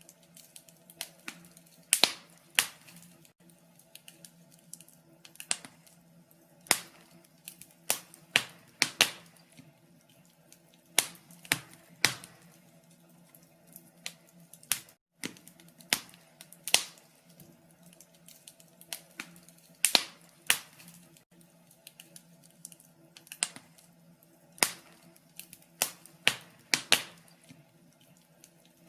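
Wood fire crackling in a fireplace: irregular sharp pops and snaps, a few every couple of seconds, some much louder than others.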